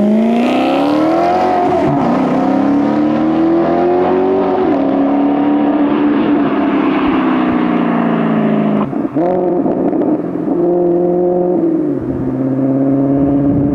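Maserati GranTurismo S's 4.7-litre V8 accelerating away, its revs climbing and dropping back at each upshift of the F1 automated gearbox; it eases off briefly about two-thirds through, then pulls again.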